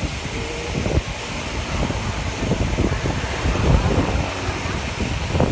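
Wind buffeting the microphone of a rider on the move, an uneven gusting rumble, with faint voices through it.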